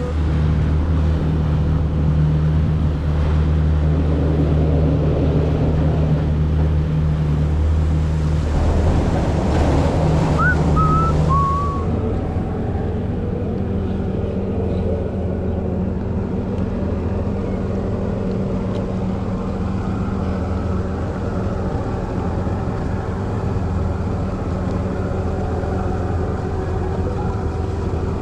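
Jet ski engine running steadily at cruising speed, with wind and water noise. The engine note shifts about a third of the way through, then settles slightly quieter.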